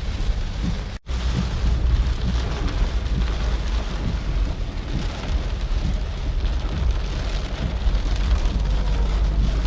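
Heavy rain falling in a steady downpour, with a deep rumble underneath. The sound drops out for a split second about a second in, then carries on.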